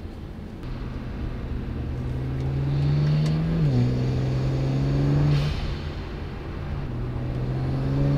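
BMW 335i's N54 twin-turbo inline-six accelerating through the gears of its automatic transmission, heard from inside the cabin. The engine pitch climbs, drops at an upshift about three and a half seconds in, climbs again, eases off with a brief whoosh of boost noise, then climbs once more near the end.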